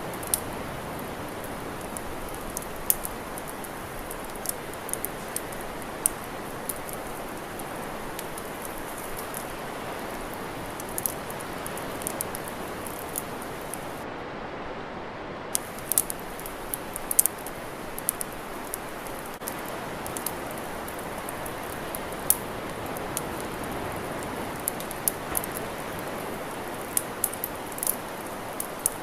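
Campfire crackling: scattered sharp pops and snaps, some in quick clusters, over a steady rushing hiss.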